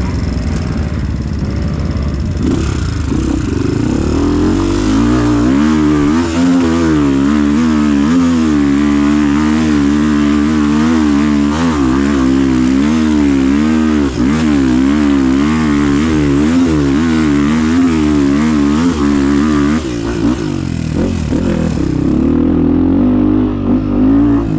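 Off-road motorcycle engine working hard on a rough trail, its revs rising and dipping over and over, about twice a second, then settling lower near the end.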